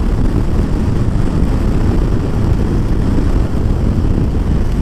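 Kawasaki ZZR1400 inline-four motorcycle cruising at road speed: a steady low rumble of engine, wind and road noise.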